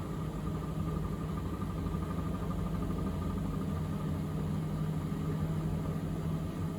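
Miele W3985 front-loading washing machine spinning its drum after the main wash: a steady motor hum with a faint higher whine over a low rumble.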